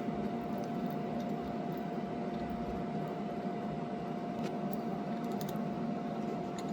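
Steady fan-like machine hum with one constant tone, and a few faint light clicks in the second half.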